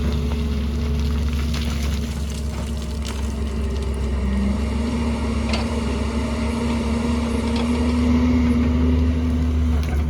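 Excavator's diesel engine running steadily with a low hum and a held tone that rises slightly, with a few short knocks scattered through it.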